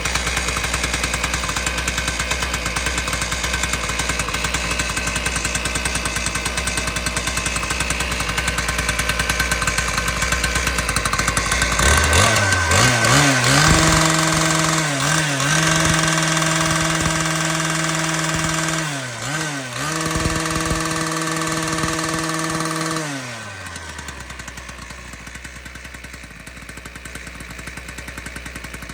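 Shindaiwa ECLD7412s two-stroke engine cutter idling, then revved up to full throttle about twelve seconds in and held high, with two brief dips in speed, before dropping back to idle about eleven seconds later.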